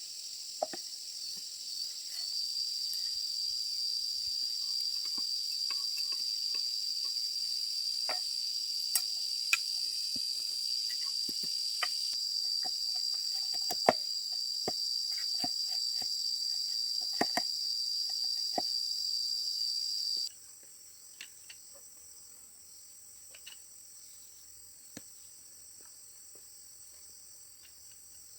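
Insects trilling in a steady, high-pitched chorus, with scattered light clicks and taps. About 20 seconds in the loud trilling cuts off abruptly, leaving a fainter high insect drone.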